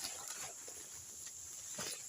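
Faint outdoor background: a steady high hiss, with a soft rustle near the end.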